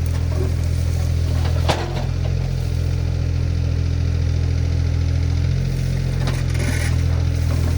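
Diesel engine of a compact earthmoving machine running steadily, with a single sharp knock about two seconds in and a brief scraping noise near the end.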